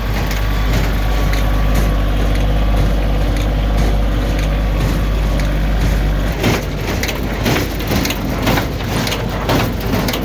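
Bobcat CT2025 compact diesel tractor driving a New Holland 268 small square baler: a steady engine drone with the baler's plunger knocking rhythmically as it packs hay. From about six seconds in the low drone eases and the knocks, about two a second, stand out.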